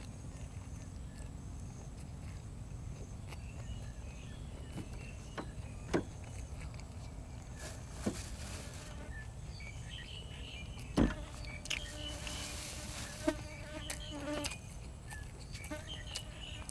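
Eating sounds: chewing and crunching with scattered sharp clicks, a louder knock about eleven seconds in, over a steady low hum.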